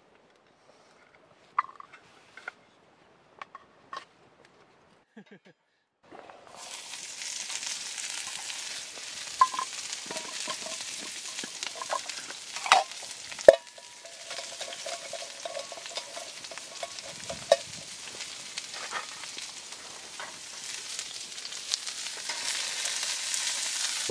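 A few light clicks, then food starts sizzling in a hot pan about six seconds in and keeps sizzling steadily, with a couple of sharp knocks midway.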